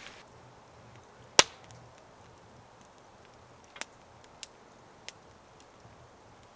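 Wood popping in a campfire: one loud sharp crack about a second and a half in, then a few smaller pops and faint ticks at irregular intervals.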